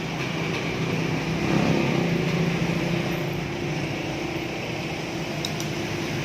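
Steady machine hum of a running motor or engine, swelling slightly about a second and a half in, with a couple of faint ticks near the end.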